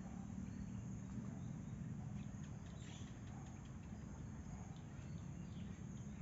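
Outdoor countryside ambience: a steady high-pitched insect drone with a few short bird chirps over a steady low rumble.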